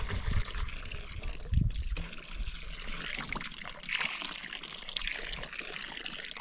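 Water trickling and pouring steadily, with a dull bump about one and a half seconds in.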